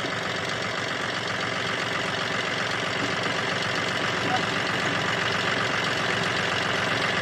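Tractor engine running steadily under load, getting slightly louder as it goes, as a 4x4 tractor works to pull a bogged-down tractor out of the mud.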